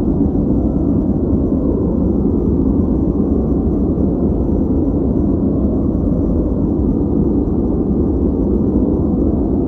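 Steady white-noise track: an even, unchanging hiss weighted low, so it sounds deep and rumbly rather than bright.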